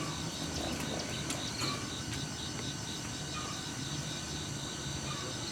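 Steady outdoor background noise with a low rumble and a rapid, evenly repeating high-pitched chirping, like insects.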